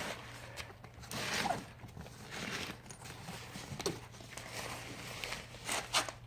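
Zippers on the side pockets of a soft motorcycle luggage bag being worked open and shut, with fabric rustling: several short rasping zip strokes.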